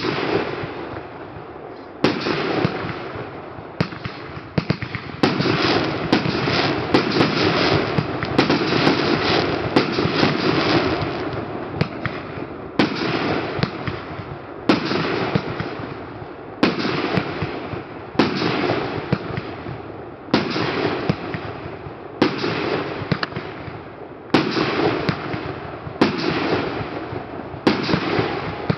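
Professional aerial fireworks going off: sharp shots about every two seconds, each trailing off into crackling. In the middle stretch the crackles run together into a dense, continuous crackle.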